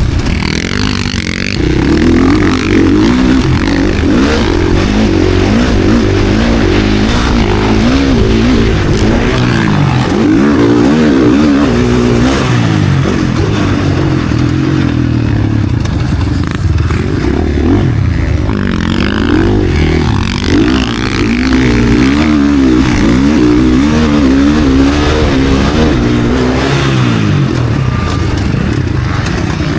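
KTM SX-F four-stroke single-cylinder motocross bike engine under race throttle. The revs rise and fall over and over as the rider opens and closes the throttle and shifts through the gears.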